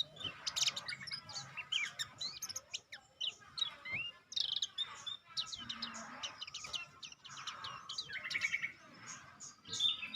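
Songbirds chirping and twittering: a dense run of quick, varied short calls and rising and falling whistled notes.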